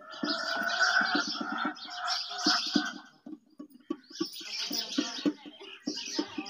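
Small birds chirping and chattering, over a rapid run of short low ticks.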